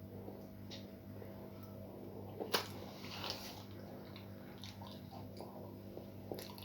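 Close-miked eating: chewing and biting with small wet mouth clicks, and one sharp smack or click about two and a half seconds in, over a steady low hum.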